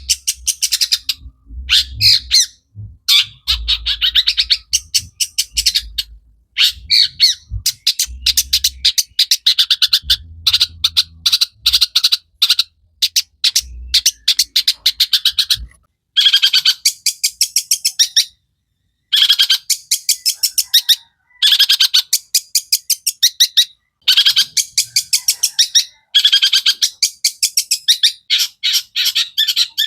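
Long-tailed shrike (cendet) singing a loud, fast chattering song full of mimicked notes, delivered in phrases of rapid repeated notes with brief pauses between them. Low thumps sound under the song during the first half.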